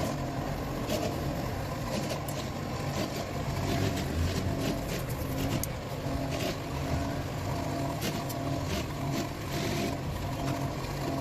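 A steady low rumble with scattered sharp clicks and taps, irregularly spaced, about a second or so apart.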